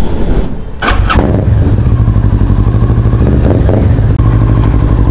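Kawasaki Ninja motorcycle engine started from cold, catching about a second in and settling into a steady idle as it warms up.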